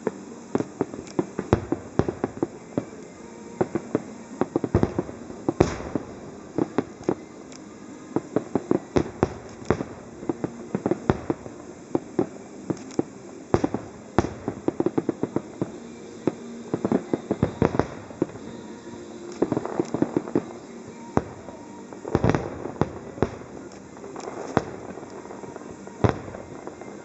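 Aerial fireworks display: an irregular run of sharp shell bursts and crackling reports, bunched in places into quick volleys of bangs.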